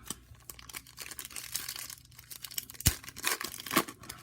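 A trading card pack's wrapper being torn open and crinkled by hand, a dense crackling rustle with one sharp knock about three seconds in.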